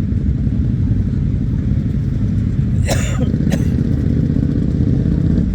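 Motorcycle engines running, a steady deep rumble, with two short sharp clicks about three seconds in.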